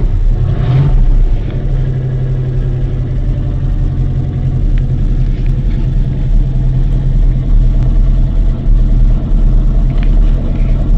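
Engine of a 3/4-ton 4x4 Chevy pickup idling steadily just after a cold start in sub-zero winter weather.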